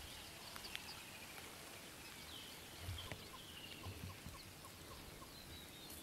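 Faint outdoor bush ambience with distant birds calling: thin high calls and, through the middle, a run of short chirps at about two a second. A couple of soft low thumps come about halfway through.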